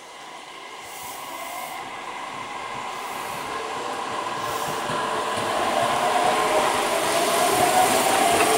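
Tobu 10030-series electric train pulling away and gathering speed, growing steadily louder as it comes past, with a motor whine that slowly rises in pitch over the noise of wheels on the rails.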